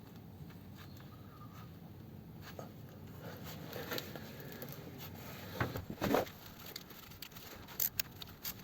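Faint clicks and scrapes of metal as a bolt is worked and nudged to start its thread in a gearbox rear mount, louder around six seconds in.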